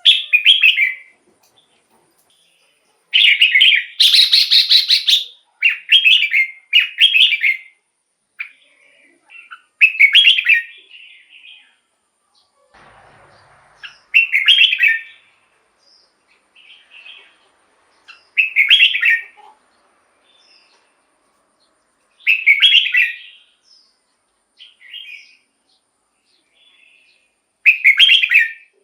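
Red-whiskered bulbul singing loud, short warbled phrases, repeated with pauses of a few seconds between them.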